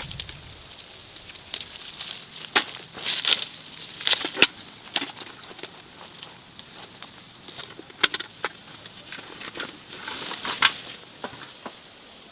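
Irregular sharp crackles and snaps, scattered unevenly over a faint hiss.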